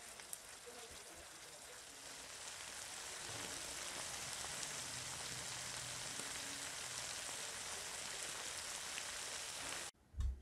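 Diced beefloaf, potatoes and carrots sizzling and bubbling in sauce in a nonstick frying pan: an even crackling hiss that grows louder about three seconds in and cuts off abruptly just before the end.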